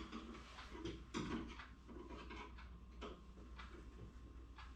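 A few faint clicks and knocks of hands working the hood and its new gas strut, the clearest knock about a second in, over a steady low hum.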